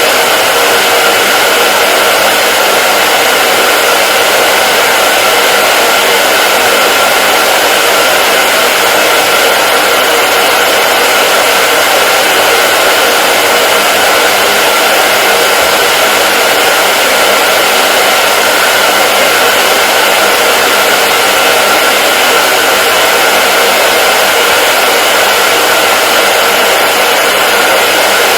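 Hair dryer running steadily on one setting: a continuous, even whoosh of air with a faint motor whine.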